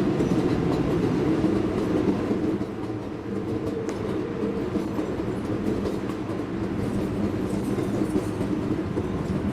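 Steady rumble inside an R142A subway car running along the track, with faint clicking of the wheels.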